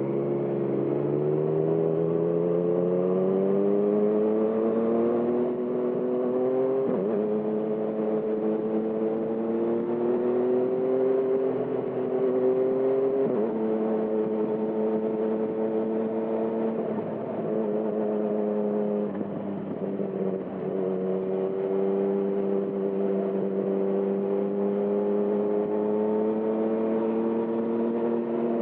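2020 Yamaha MT-09's 847 cc inline-three running through a Termignoni exhaust under way. The engine note climbs, then drops with upshifts about a quarter of the way in and again near halfway. It eases off briefly about two-thirds through and then holds a fairly steady cruising note.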